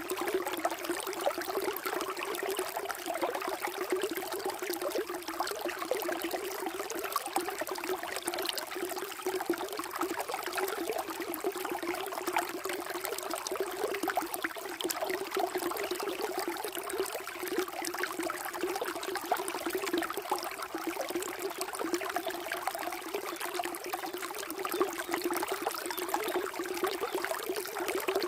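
Water flowing and trickling steadily, a continuous busy splashing burble without pauses.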